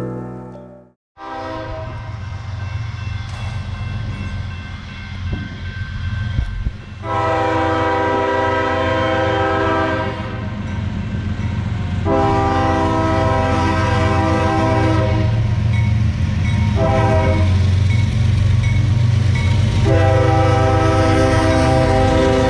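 CSX diesel freight locomotive sounding its air horn in the long, long, short, long pattern used at a grade crossing, over the steady low rumble of the engine and train. Background music cuts off about a second in, just before the train sound comes up.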